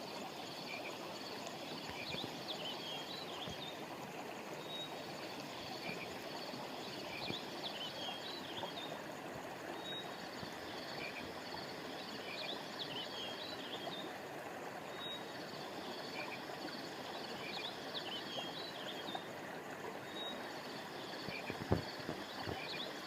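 River water flowing steadily, with small birds chirping in repeated short bursts over a high, steady insect trill. A single short thump comes near the end.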